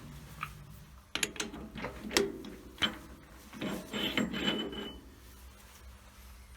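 Scattered clicks and metallic knocks of parts or tools being handled at a lathe: a few separate knocks, then a short rattling cluster about four seconds in, over a faint low hum.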